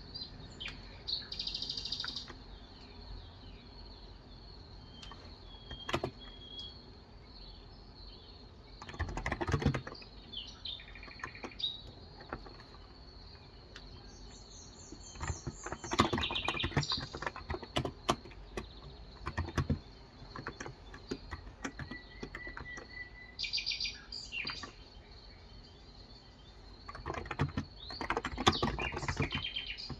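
Short bursts of typing on a Cox Endeavor electrostatic capacitive 35g tenkeyless keyboard, three clusters of rapid key clicks, the longest near the end. Between them, birds chirp in short calls, one a quick rising run of notes, over a faint steady high whine.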